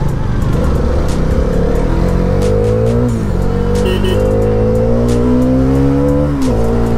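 Hero Karizma XMR 210's single-cylinder engine pulling hard under acceleration, revs climbing steadily, then dropping sharply at an upshift about three seconds in and again near the end.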